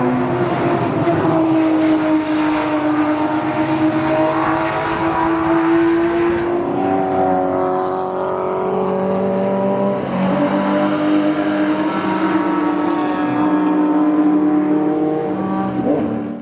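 Ferrari 250 GTO's 3.0-litre V12 running hard on a race track, its note climbing through the revs and dropping back at gear changes several times. The sound cuts off abruptly at the end.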